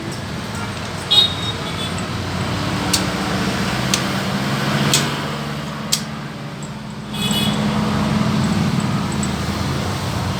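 Steady low traffic hum, with several sharp metallic clinks that ring briefly, from tools and engine parts being handled.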